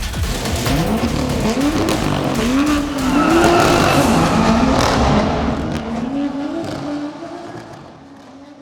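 BMW M2's turbocharged straight-six accelerating hard, its pitch climbing and dropping back several times as it shifts up through the gears, then fading away near the end.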